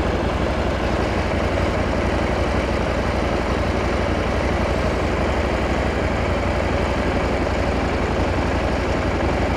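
KTM 890 SMT motorcycle's parallel-twin engine idling steadily while the bike stands still.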